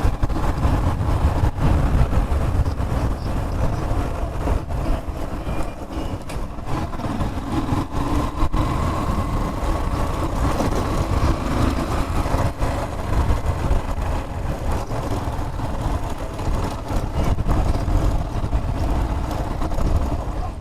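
Motor vehicle noise: a continuous low rumble that rises and falls unevenly.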